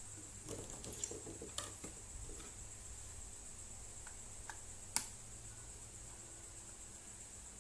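Small plastic clicks and light handling noises of laptop parts being worked loose during disassembly, with a sharper click about five seconds in.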